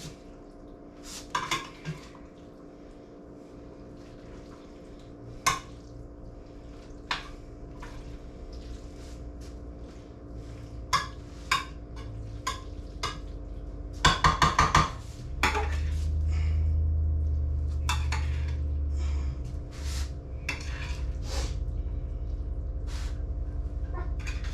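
A metal spoon clinking and scraping against a pot while a thick macaroni, chicken and cheese mixture is stirred, with a quick run of clinks about fourteen seconds in. A low steady rumble comes in about halfway through and stays.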